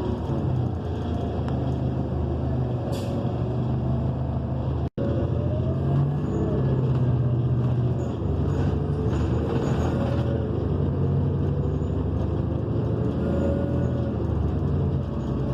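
Inside a New Flyer XN40 bus on the move: the Cummins Westport ISL G natural-gas engine and Allison B400R transmission drone steadily, with a faint whine gliding up and down as the bus changes speed. There is a short hiss about three seconds in, and the sound cuts out for an instant about five seconds in.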